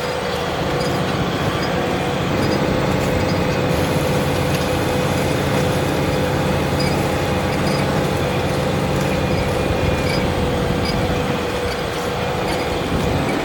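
Large Fendt tractor engine running steadily under load while pulling a plough, with a steady whine over the engine note.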